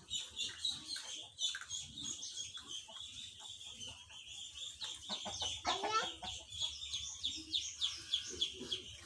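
Birds calling in the background: a steady run of quick, high chirps, with one louder rising call about six seconds in.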